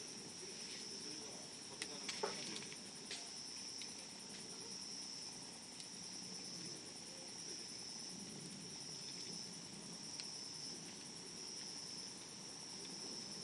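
Campfire burning, with scattered sharp crackles and pops from the wood, a cluster of them about two seconds in, over a steady high insect trill.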